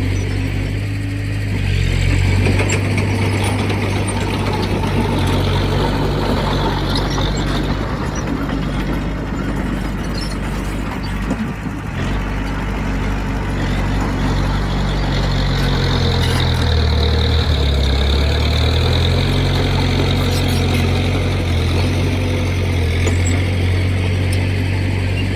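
Heavy diesel engine of earth-moving equipment running steadily, with dense mechanical noise over its low hum; the engine note shifts lower for a couple of seconds about two-thirds of the way through.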